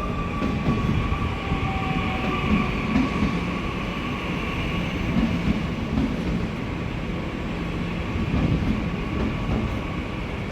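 A train running through the station: a steady rumbling with a faint, even high whine over it that fades near the end.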